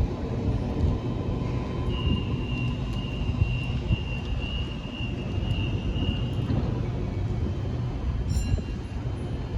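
Train running along the track at a station platform: a steady low rumble, with a thin high whine held for about four seconds in the middle.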